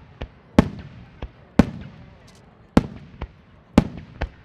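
Starmine fireworks barrage: aerial shells bursting in quick succession, about eight sharp bangs with echoing tails. Some bangs are loud and others fainter.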